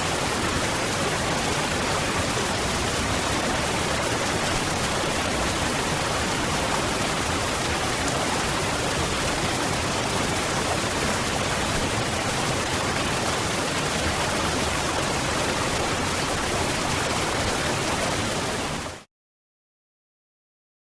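Waterfall: a steady, even rush of falling water that fades out quickly into silence near the end.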